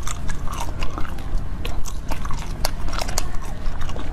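Close-miked biting and chewing of a corn-cob-shaped jelly, with many crisp crackles and a bite near the end.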